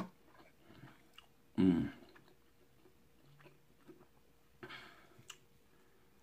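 A person chewing food with soft wet mouth clicks. A short voiced hum-like sound comes about a second and a half in, and a fainter one near five seconds.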